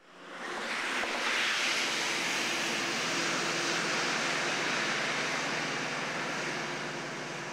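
Steady rushing noise of the Okuizumo Orochi trolley train on the move, wind and running noise together, fading in over the first second. A faint low hum runs under it.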